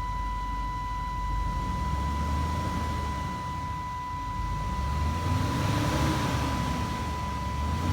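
A low-mileage 5.7-litre V8 in a 1999 Chevrolet Express van being revved up and back down, twice, running smoothly. A steady high-pitched tone sounds alongside it throughout.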